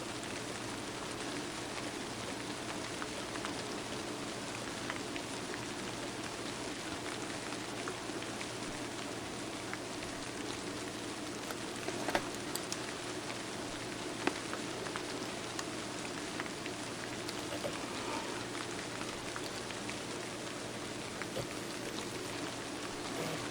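Steady rain falling, an even patter of drops. Two sharp clicks stand out about halfway through.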